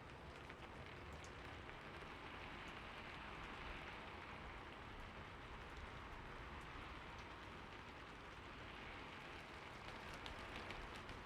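Soft, steady city rain: an even hiss of rain falling on hard surfaces, with scattered faint drop ticks and a low background rumble.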